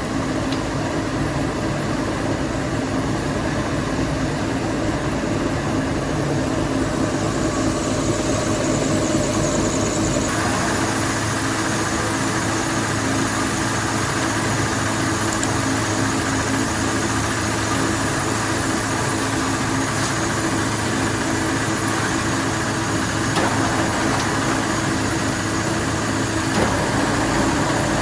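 Factory machinery running steadily with a constant hum. About ten seconds in, the sound shifts and turns brighter.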